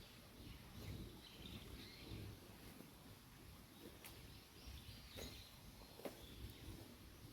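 Near silence: faint outdoor ambience with a low rumble, distant bird chirps now and then, and a few soft clicks in the second half.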